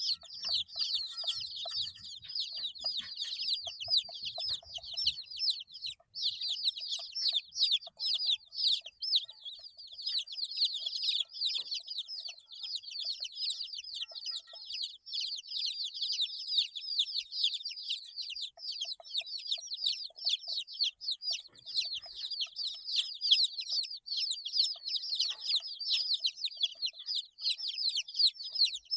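A group of 8-day-old chicks peeping non-stop: many high, quick, downward-sliding chirps overlapping, with a brief lull about six seconds in.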